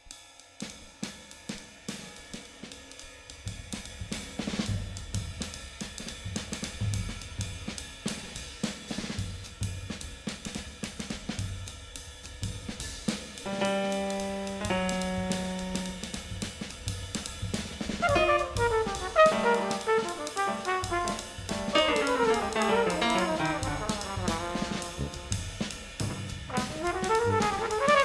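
Jazz brass ensemble recording: a drum kit plays on hi-hat and cymbals with bass drum, getting louder, two long held low notes sound about halfway, and from about two-thirds in the horns enter playing moving lines together.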